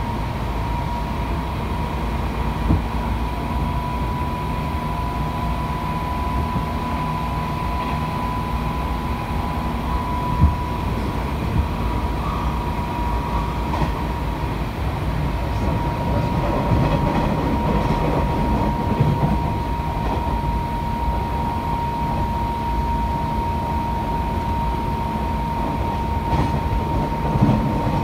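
Hanshin Railway electric train running at speed, heard from inside the carriage: a steady rumble of wheels on the track with a constant high tone above it and a few short knocks.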